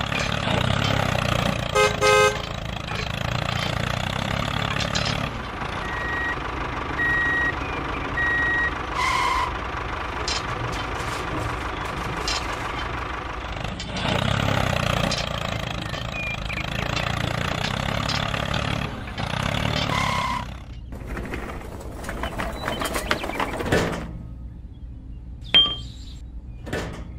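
Tractor engine running steadily under a miniature tractor. There is a short horn toot about two seconds in and three reversing beeps a few seconds later. The engine drops away near the end, leaving a few clicks.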